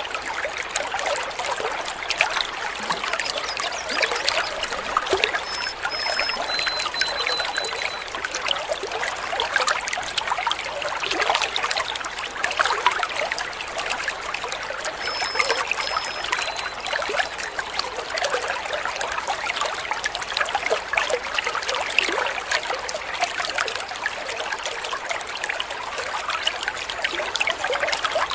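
Water trickling and babbling steadily over stones, like a small stream. Faint short high bird notes come twice: about a quarter of the way in and again near the middle.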